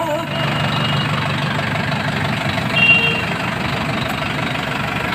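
Mahindra Yuvo 575 tractor's four-cylinder diesel engine idling steadily, with a brief high tone about three seconds in.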